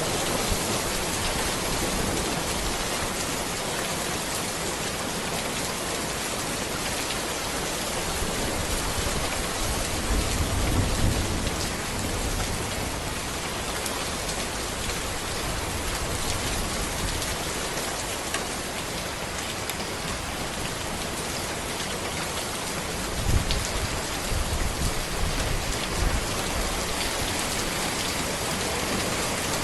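Steady rain falling on a road and trees, an even hiss of drops. Two short low rumbles swell under it, about ten seconds in and again about two-thirds of the way through.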